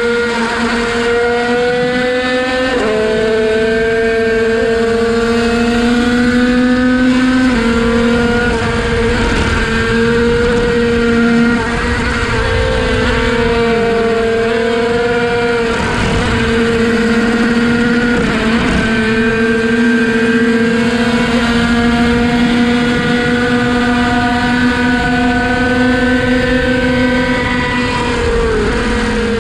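Derbi-based 50cc single-cylinder two-stroke race engine with a Bidalot cylinder, held at high revs in a steady high-pitched buzz that dips briefly several times. Wind rushes over the fairing throughout.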